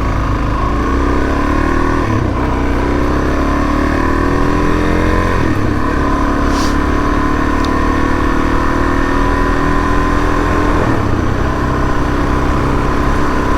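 Suzuki DR-Z400S single-cylinder engine pulling through the gears under way, its pitch climbing and then dropping at upshifts about two, five and a half, and eleven seconds in. A steady low rumble of wind on the bike-mounted microphone lies beneath it.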